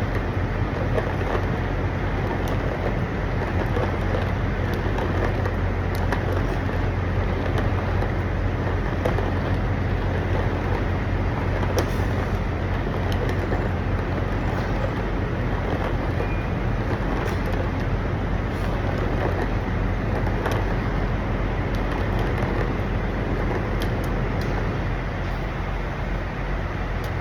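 Steady low rumble of vehicle engines and traffic, with a constant low hum.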